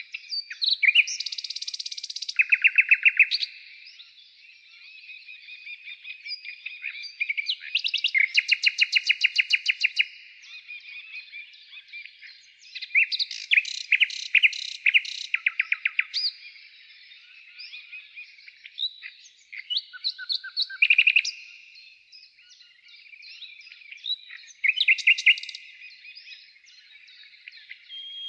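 Songbirds singing: loud phrases of fast, rapidly repeated chirps and trills every few seconds, with quieter twittering in between.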